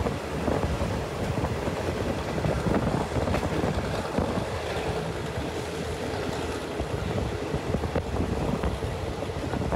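Steady rumble and rush of a moving train heard from on board, with wind buffeting the microphone.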